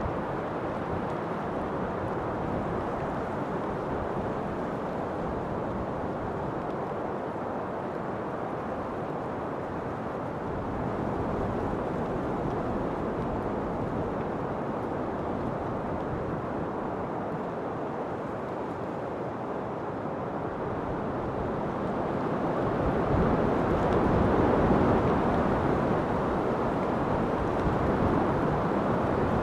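Steady wind, a low rushing noise that swells louder for a few seconds about three-quarters of the way through.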